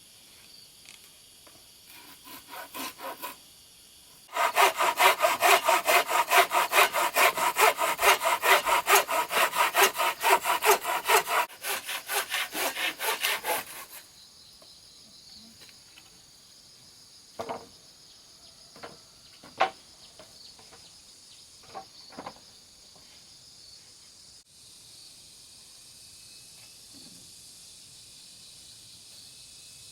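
Hand saw cutting through wood in fast, even back-and-forth strokes, about three a second, after a few short starting strokes; the strokes grow softer as the cut ends. A few separate knocks follow.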